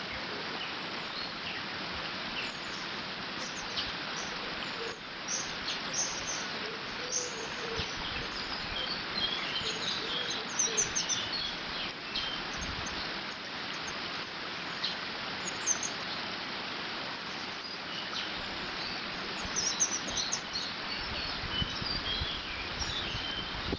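Water running steadily through a beaver dam, with many small birds chirping and singing over it in short, frequent phrases. A little wind rumbles on the microphone near the end.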